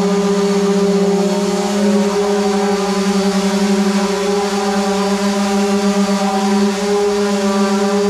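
Electric power tool motor running at a steady speed, a constant hum that switched on abruptly just before.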